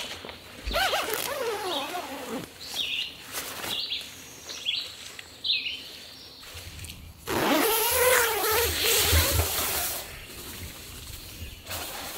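A bird calling outdoors: falling, mewing calls about a second in, short high chirps after them, and more calls about seven seconds in. Over the later calls, tent fabric rustles loudly for a couple of seconds as it is handled.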